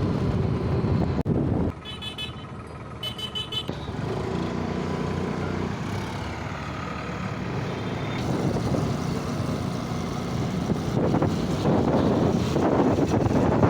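Tractor engine running, with a horn sounding twice, about two and three seconds in. The engine grows louder near the end.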